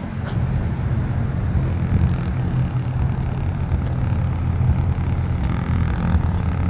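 Corvette V8 engine rumbling at low speed as the car rolls in, a steady deep drone.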